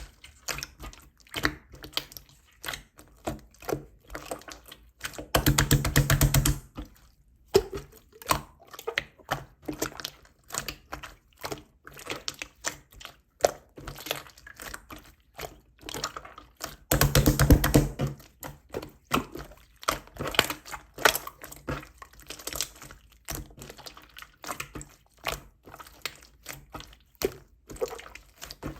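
Slime being kneaded and pressed by hand, making irregular wet clicks and pops of trapped air. Two runs of rapid crackling, about five seconds in and again about seventeen seconds in, are the loudest.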